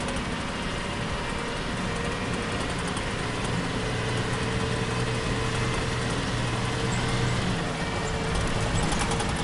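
Off-road 4x4's engine running steadily under load on a rough, bumpy track, heard from inside the cab, with a few clicks and knocks near the end.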